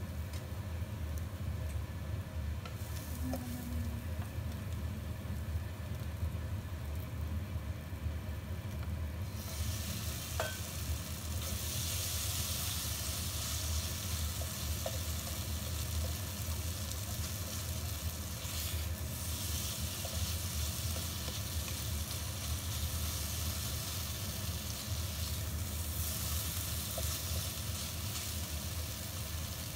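Chopped garlic sizzling in hot oil in a wok while a nylon spatula stirs it. About nine and a half seconds in, chicken pieces go in and the sizzle gets much louder and hissier as they are stirred and fried. A steady low hum runs underneath.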